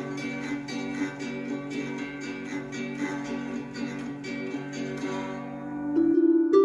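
Background music: an acoustic guitar strumming steadily under the song's closing chords. Just after six seconds the strumming stops and a new, softer plucked-string passage begins.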